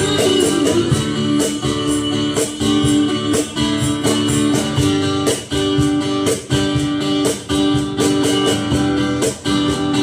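Guitar strumming chords in a steady, even rhythm: an instrumental break in the song with no singing.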